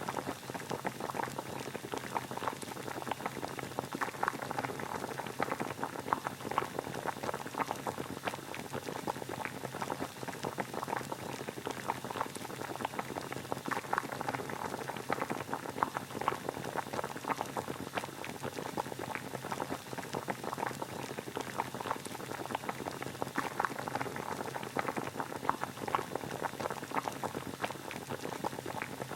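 Water boiling steadily, a continuous dense bubbling and popping.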